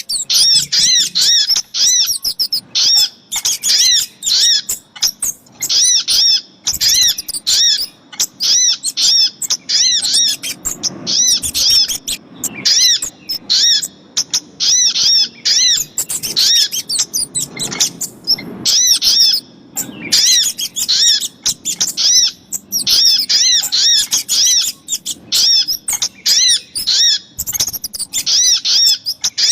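Bird-lure recording of sogok ontong (little spiderhunter) and kemade calls: rapid runs of short, high, arched chirps, many to the second, in bursts broken by brief pauses.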